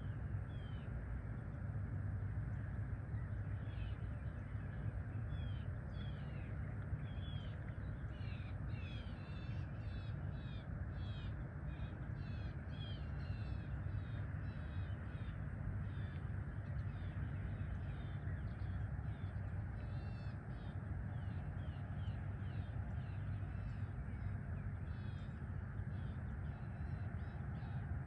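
Birds calling in quick bursts of short chirps, thickest through the middle, over a steady low rumble.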